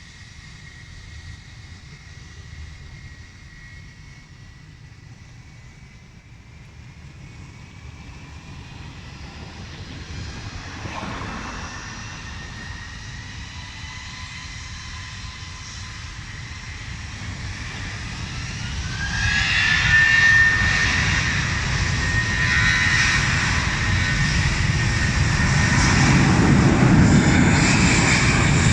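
Jet airliner's engines drawing closer: a thin high whine grows steadily louder, rises in pitch about two-thirds of the way through, and a deep rumble builds beneath it near the end as the aircraft nears.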